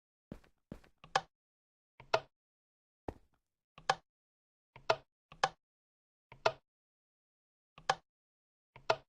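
A series of about ten short, sharp clicks at uneven intervals, each a faint click followed at once by a louder one, with dead silence between.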